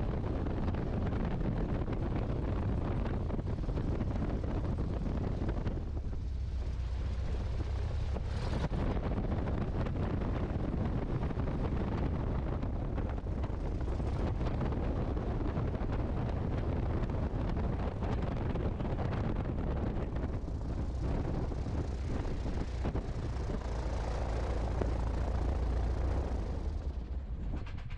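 Great Lakes open-cockpit biplane's piston engine running at low power while taxiing, with wind rumbling on the microphone. The sound thins briefly about six seconds in and fades near the end.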